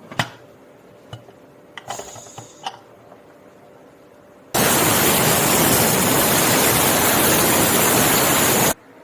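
A few light metal clinks, then a pressure cooker's whistle letting off steam: a loud, steady hiss starting about halfway in and cutting off suddenly after about four seconds.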